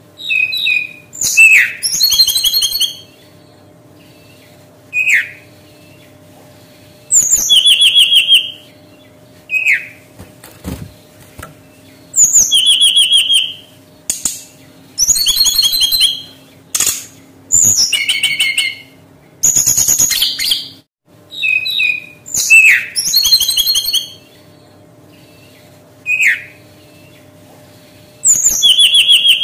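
Brown-chested jungle flycatcher singing: short down-slurred whistled notes alternating with buzzy, rattling phrases about a second long, repeated every few seconds, over a faint steady hum.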